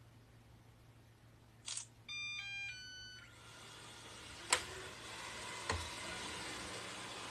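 Robot vacuum cleaner playing a short electronic start-up melody of several stepped beeps, after a brief noise just before it. Its motor then comes on and runs steadily with a hiss, broken by two sharp knocks, the first the loudest sound here.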